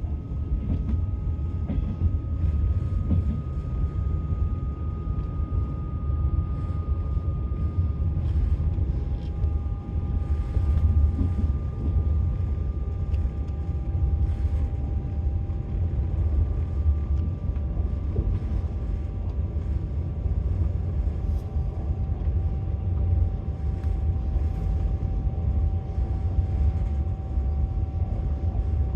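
Passenger train running at speed, heard from inside the carriage: a steady low rumble of the wheels on the rails, with a faint steady whine above it.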